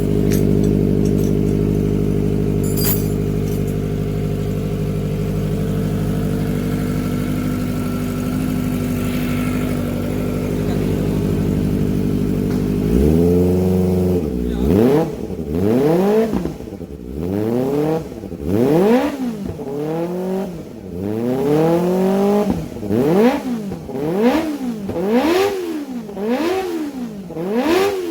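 Kawasaki ZX-25R inline-four engine breathing through an aftermarket carbon silencer. It idles steadily, then about halfway through is revved over and over in quick throttle blips, about one a second, the pitch climbing and dropping each time.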